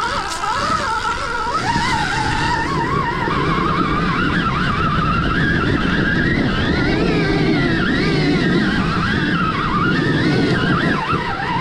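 Stark Varg EX electric dirt bike's motor whining, its pitch rising and falling with the throttle, over the rumble of tyres on rough ground during an uphill climb.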